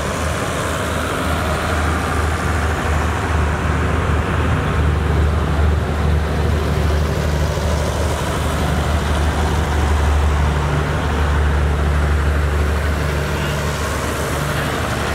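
Departing rapid passenger train, its coaches rolling past on the track with a steady, loud low rumble.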